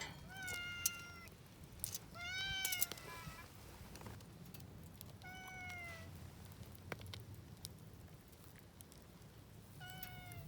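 A cat meowing four times, each meow under a second long and falling slightly at the end, with a few sharp clicks in between.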